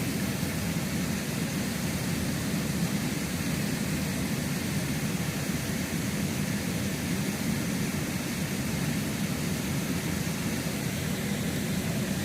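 Creek water rushing steadily, an even unbroken noise.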